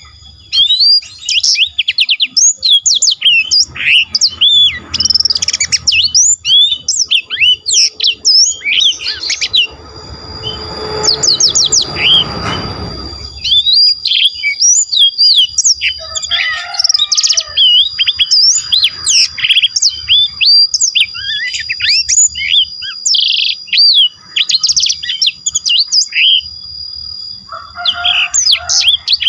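A songbird singing a long, continuous, fluent song of rapid, varied whistled phrases, with hardly a break. About a third of the way in, a rush of noise lasting a few seconds sits under the song.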